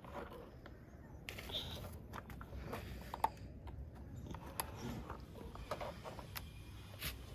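Scattered light clicks, taps and scraping of toy vehicles being handled, with a short burst of rustling soil about a second in.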